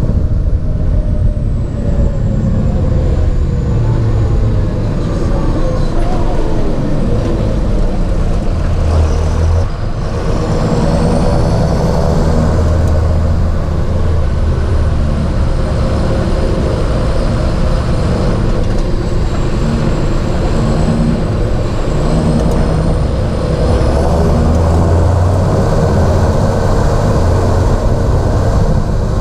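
John Deere 7430 Premium tractor's six-cylinder diesel engine running steadily, its revs dropping a few seconds in and rising again about ten seconds in, with a faint high whine sliding up and down with the revs.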